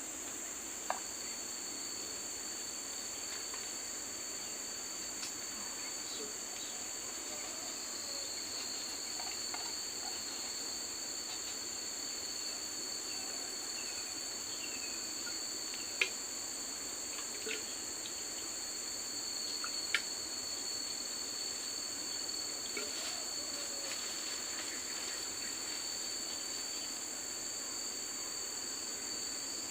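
Steady chorus of forest insects, crickets or cicadas trilling continuously at a high pitch. A few sharp clicks or knocks stand out, about a second in, around the middle, and again a few seconds later.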